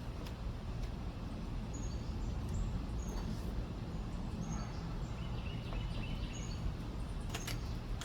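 Outdoor background noise, a steady low rumble, with a string of short high bird chirps scattered through it.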